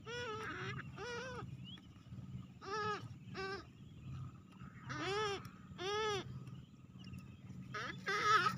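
Young paddy-field bird chicks calling: a string of short pitched cries, each rising then falling in pitch, coming in bunches of two or three with pauses between.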